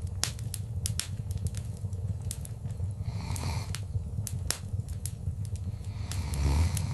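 Wood fire crackling in a fireplace: frequent sharp pops and snaps of varying strength over a low steady rumble of the flames. There are brief soft hissing swells about halfway through and again near the end.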